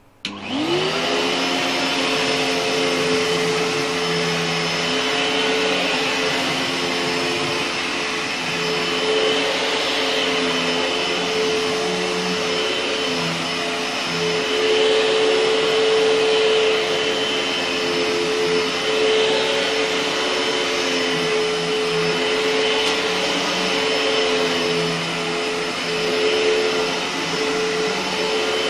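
A Panasonic MCE-465 cylinder vacuum cleaner with a 1500-watt motor is switched on just after the start. The motor winds up quickly to speed with a rising whine, then runs steadily with a strong hum over a rushing hiss of air.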